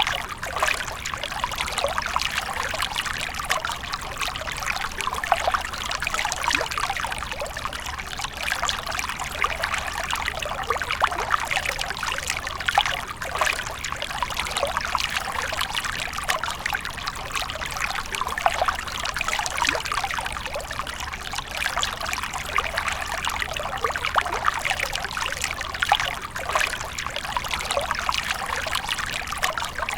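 Water from a fountain splashing and trickling steadily, with many small splashes.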